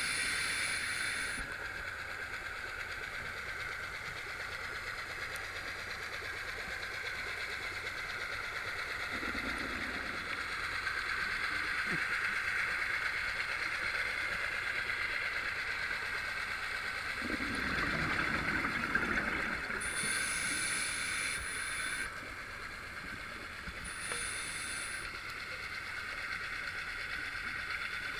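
Underwater sound from a scuba diver's camera: a steady hiss, with the diver's regulator breathing and bubbles a few times, at the start and again about twenty seconds in and near the end, and low bubbling swells in between.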